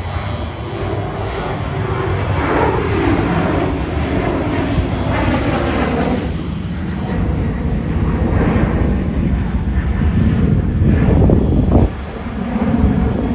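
Virgin Australia Boeing 737's twin jet engines running loud and steady as the airliner goes by, dipping briefly near the end.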